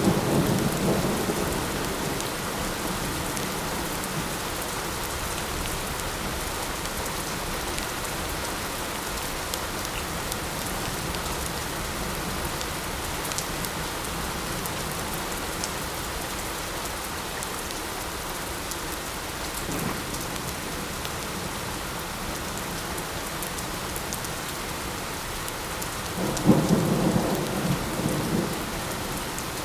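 Steady light rain hissing, with rolling thunder: a rumble fading away in the first second or two, a short faint one midway, and a louder rumble near the end.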